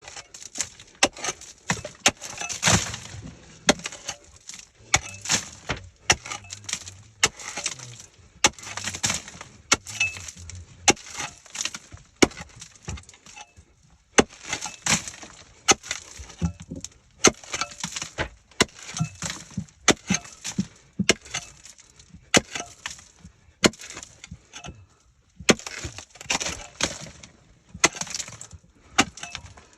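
Irregular clattering and crunching of hard material breaking and knocking together, with many sharp cracks in quick succession.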